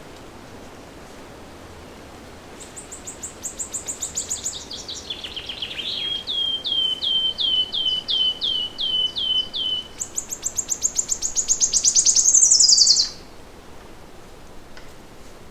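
A songbird singing one long song: a fast trill sliding down in pitch, then a dozen repeated hooked notes at about three a second, then a fast high trill that ends in a falling sweep and stops suddenly. A steady low hiss of background noise runs underneath.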